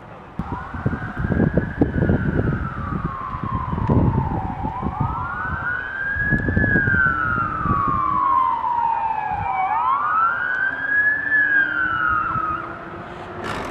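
Emergency vehicle siren wailing in three slow cycles. Each cycle is a quick rise in pitch and then a long falling glide, and the siren cuts off shortly before a sharp click near the end. A gusty low rumble runs underneath.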